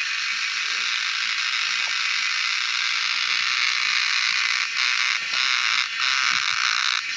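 Cicada singing: a loud, steady, rasping buzz, broken by a few short gaps in the second half.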